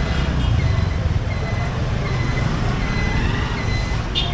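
Steady low motor-vehicle rumble with a short high-pitched electronic beep repeating about every three-quarters of a second, as from a reversing or indicator beeper.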